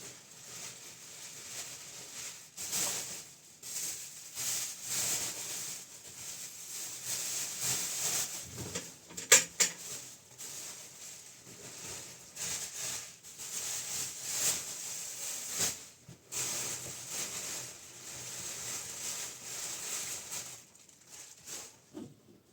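Irregular rustling and scraping of things being handled, with one sharp knock about nine seconds in.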